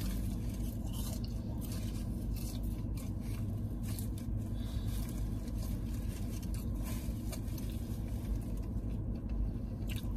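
Chewing and mouth noises of a person eating fries, with scattered small clicks and rustles, over a steady low hum inside a car.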